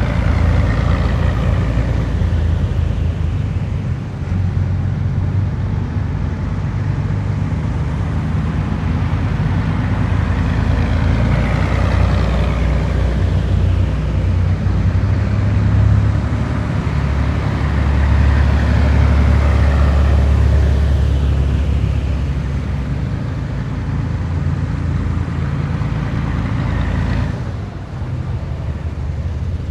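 Heavy military vehicles driving past one after another, a deep engine drone whose pitch sweeps up and down as each one passes. The sound dips briefly near the end, then picks up again.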